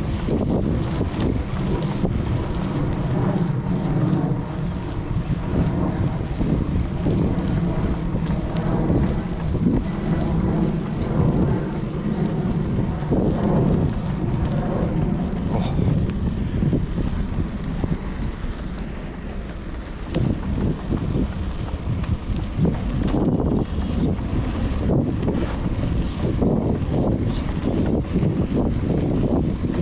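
Wind and road noise on a cycling action camera's microphone while riding, with a steady motor vehicle hum through the first half that fades by about the middle.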